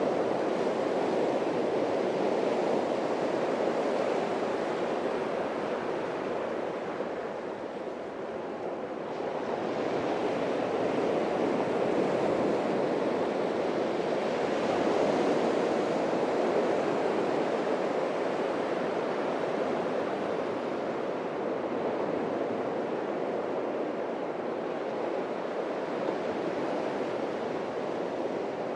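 Atlantic surf washing onto a beach, a continuous rushing that swells and ebbs, easing about eight seconds in and building again about fifteen seconds in.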